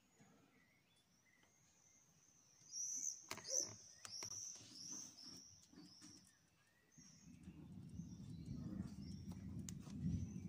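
Birds chirping, with short high calls that are loudest a few seconds in. From about seven seconds in, a low rumble of distant thunder builds and carries on.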